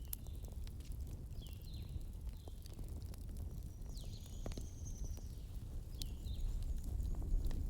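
Wood fire burning in a fireplace: a steady low rumble with many irregular sharp crackles and pops of burning logs. A few brief high chirping squeaks are heard here and there.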